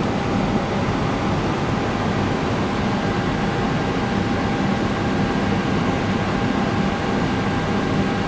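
Steady, even running noise of an airliner's auxiliary power unit, heard from inside the flight deck, mixed with the rush of ventilation fans and a faint steady whine.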